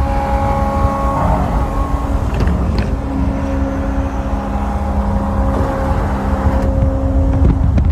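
Ferrari supercar engine running at a steady cruising pace on the highway, its held pitch stepping down about a second in and back up around three seconds in, over heavy low road and wind rumble.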